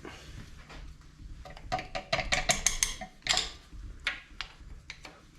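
Ratchet wrench clicking in quick runs, with light metal-on-metal clinks, while the oil pressure sending unit is unscrewed from a Ford 460 V8 block; the clicking is thickest about two to three seconds in.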